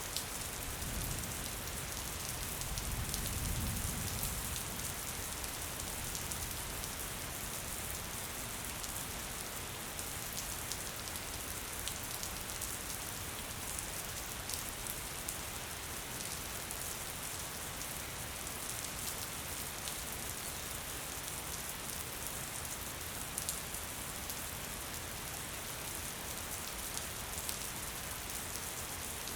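Steady gentle rain falling on surfaces, an even hiss with scattered sharper drops. A low rumble swells and fades in the first few seconds.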